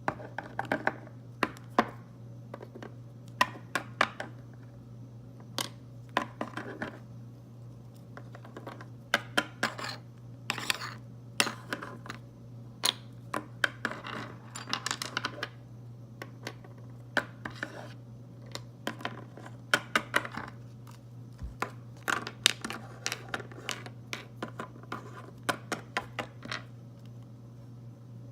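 Objects being handled: irregular sharp clicks, clinks and short scraping rustles, over a steady low hum.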